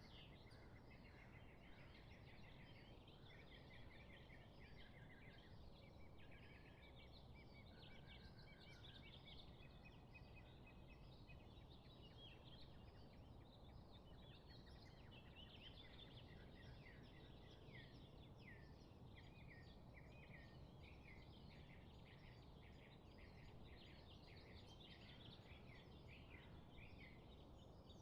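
Several birds chirping and trilling, with many short, quick calls overlapping throughout, faint over a steady low background rumble.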